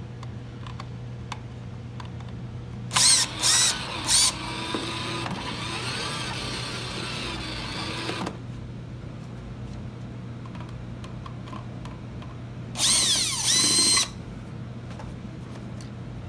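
A cordless drill-driver run in short trigger bursts to back out the screws of a plastic housing, its motor whine rising and falling with each pull. Three quick bursts about three seconds in, a longer, quieter run to about eight seconds, then two more bursts near the end.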